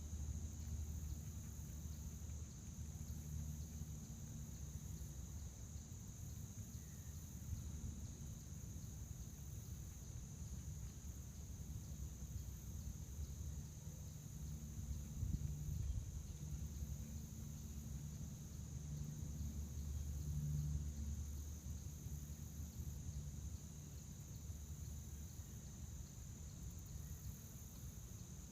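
Crickets chirping in a steady, unbroken high-pitched chorus, over a low rumble.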